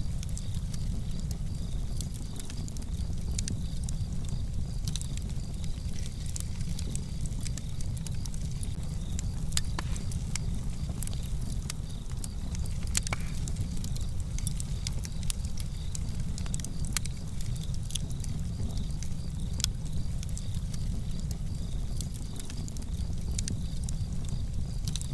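Fire in a fireplace crackling: scattered sharp pops and snaps over a steady low rumble.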